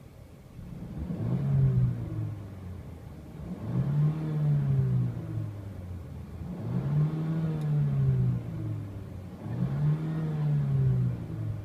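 2014 Mercedes-Benz CLA250's 2.0-litre turbocharged four-cylinder engine revved four times at a standstill, each rev rising and then falling back to idle.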